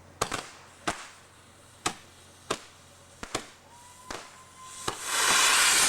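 Small firework rocket igniting on a launcher and shooting off with a loud rushing hiss about five seconds in, after a few scattered sharp pops.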